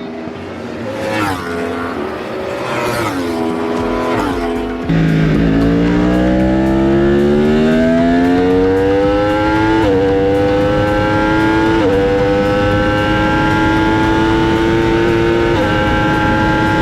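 Racing motorcycle engines at a race circuit. First a few bikes pass with falling engine notes. Then one loud engine accelerates hard, its note rising through several gear changes, each upshift a brief dip before the pitch climbs again.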